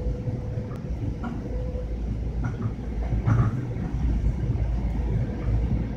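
Inside a moving Long Island Rail Road M7 electric multiple-unit train: a steady low rumble of the car running along the track, with a few faint clicks.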